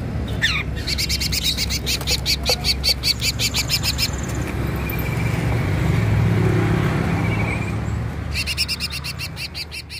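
A songbird calling in rapid trills of high, evenly repeated notes, about eight a second, in two bouts, one near the start and one near the end, with a short falling whistle just before the first. A steady low hum runs underneath.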